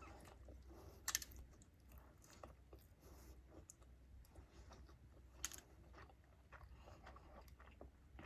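A person quietly chewing food close to the microphone, with many soft, scattered mouth clicks and two sharper clicks, one about a second in and one past the middle.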